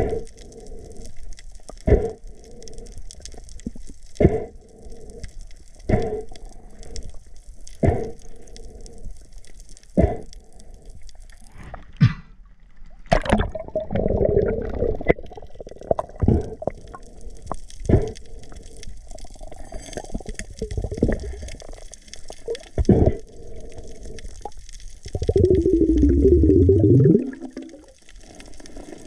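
Muffled water sound as heard by a camera in or at the water, with sharp knocks about every two seconds. Around the middle it turns busier and splashier, and a loud gurgling burst with a falling pitch comes near the end.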